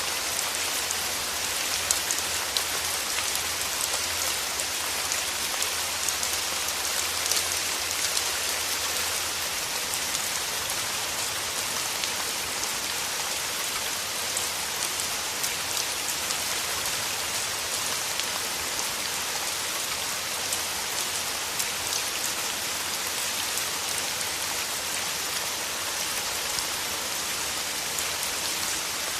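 Steady rain falling through forest trees, with a constant hiss and many small drops pattering close by.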